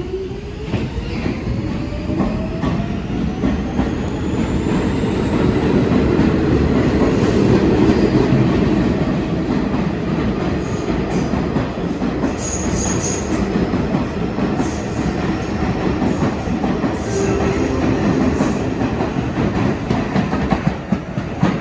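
R46 subway train running on the N line, its traction motors whining and rising in pitch over the first few seconds as it gathers speed. The wheels clatter over the rail joints, with a few brief wheel squeals about halfway through.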